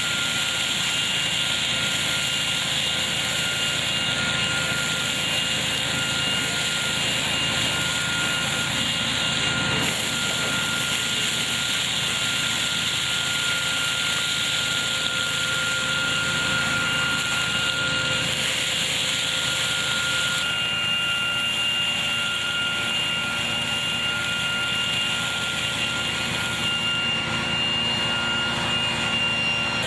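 Tractor-driven hazelnut harvesting machine running steadily: a continuous mechanical noise with a steady high whine, which changes slightly about two-thirds of the way through.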